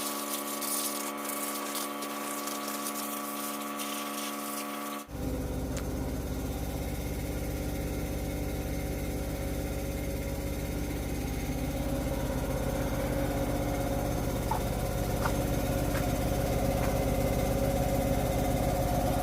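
An engine running steadily at idle. About five seconds in the sound changes abruptly to a deeper, heavier, evenly pulsing run that holds steady.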